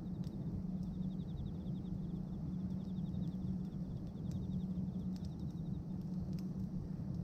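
Bonfire of pruned tree branches crackling, with scattered sharp pops over a steady low rumble. A high, fast pulsing chirp repeats in short trains behind it.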